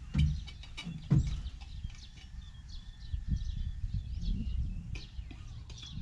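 Small birds chirping in many short, scattered calls over a low, uneven rumble, with two sharp knocks in the first second or so.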